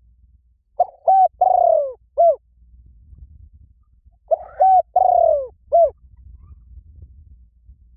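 A bird calling: a cooing four-note phrase whose third note is long and falls in pitch, given twice about three and a half seconds apart.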